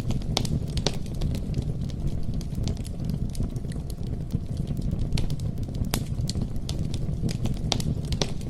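Wood fire (bonfire) crackling: a steady low rumble of burning with irregular sharp pops and snaps scattered throughout.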